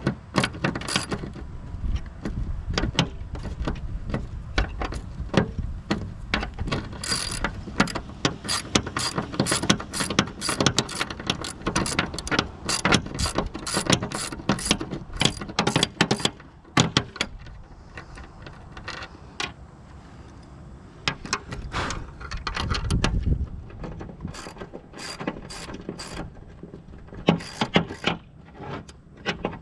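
Socket ratchet wrench clicking in quick runs as bolts on the mower's bearing housing are turned. The clicking is dense for the first half, thins out after about seventeen seconds, and comes back in short runs near the end.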